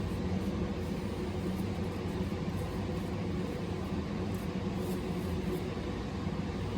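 A steady mechanical hum with several low tones held at one pitch and an even background hiss.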